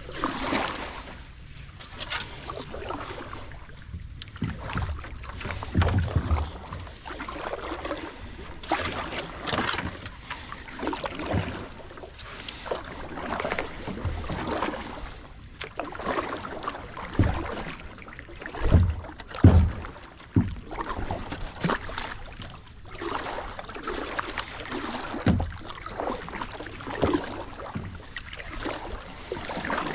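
Kayak paddle strokes swishing and splashing through water, repeating every second or two, with a few low thumps.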